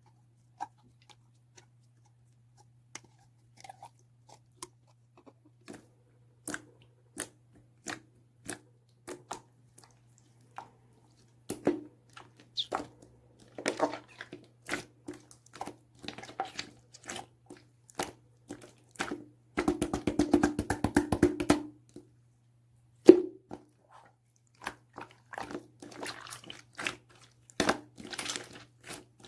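Clear slime being squeezed and stretched by hand, giving sticky clicks and pops, sparse at first and growing denser, with a fast crackling run of clicks about two-thirds of the way through and one sharp pop shortly after.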